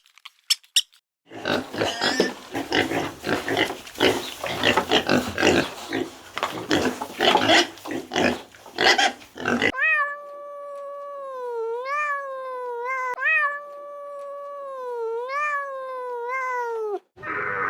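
Animal calls from separate clips cut together: first a few short clicks, then a long stretch of dense, rapid grunting sounds, then one long pitched call, about seven seconds, that dips and rises in pitch before cutting off suddenly.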